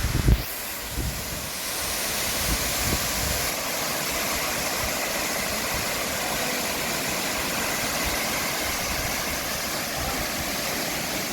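Waterfall rushing as a steady, even roar of falling water. A few low thumps of wind on the microphone sound in the first second.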